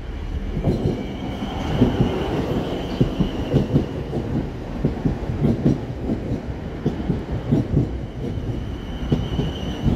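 South Western Railway passenger train passing close by, its wheels clattering over the rail joints and points in a run of irregular knocks over a low rumble, with a faint steady high whine above.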